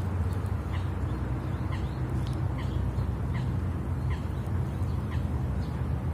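Bird calls outdoors: short chirps repeating about once a second over a steady low rumble.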